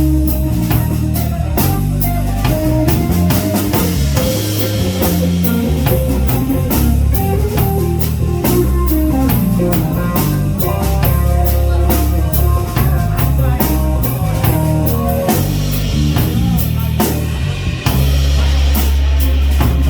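Instrumental break in a slow blues-rock song: a guitar plays a melodic line over bass and a drum kit.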